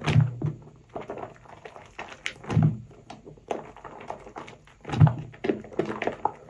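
Wet, soapy sponge being squeezed and worked in foam: three heavier squelches about two and a half seconds apart, with fine crackling and popping of lather between them.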